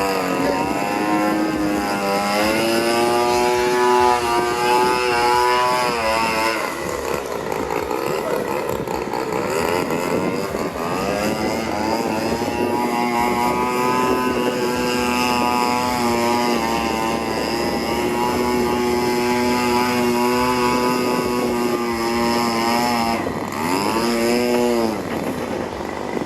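26cc two-stroke gasoline engine and propeller of a 62-inch Katana RC aerobatic plane in flight, the note gliding up and down with throttle and passes. The pitch swoops down and back up near the start and again about 24 seconds in.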